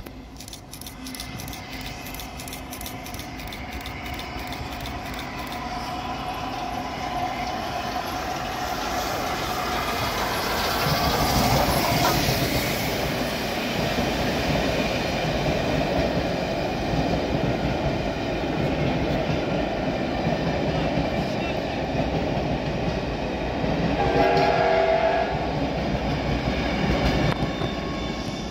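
A passenger train running past: LNER Peppercorn A2 Pacific steam locomotive 60532 Blue Peter approaching and passing, the noise growing to a peak about eleven seconds in, followed by a long rake of coaches rumbling and clattering over the rail joints. Near the end the Class 57 diesel-electric locomotive 57311 on the rear goes by, with a short pitched note about twenty-four seconds in.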